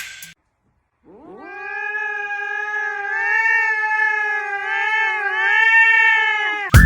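A domestic cat giving one long, drawn-out yowl. It starts about a second in, rises in pitch at first, then holds for about five seconds with a slight waver before breaking off.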